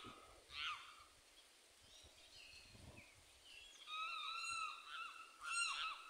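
Birds calling across the water: a short call just under a second in, a longer drawn-out call about four seconds in, and the loudest call near the end.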